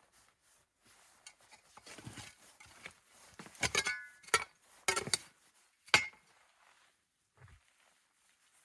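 Handling of objects: soft rustling, then a quick run of clinks and knocks in the middle, two of them with a brief metallic ring, and one faint knock near the end.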